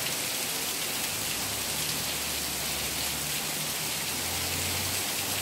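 Heavy rain pouring down, a steady hiss of rain on wet pavement. A faint low hum runs underneath from about a second and a half in.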